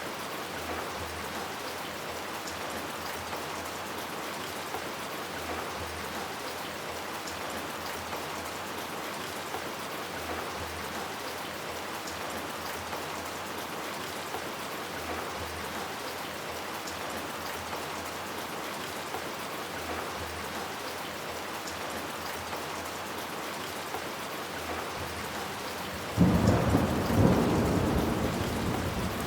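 Steady heavy rain falling on hard surfaces. Near the end a sudden loud thunderclap breaks in and rolls on as a fading rumble.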